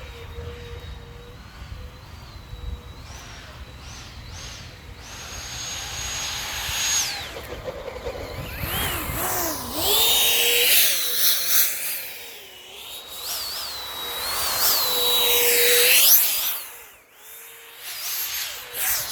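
Electric ducted fan on an RC car whining at high pitch, the whine rising and falling with the throttle, along with the car's electric drive motor. It gets loudest in sweeping passes about halfway through and again around three quarters of the way in.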